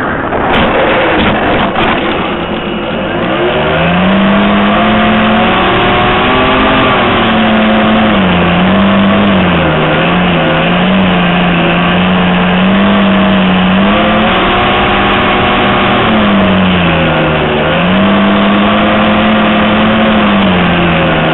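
Geared electric motor and propeller of an RC plane, heard close up from an onboard camera, running under throttle with a steady rush of noise. Its hum settles lower about three seconds in, then dips and climbs back twice, around ten and seventeen seconds in, as the throttle changes.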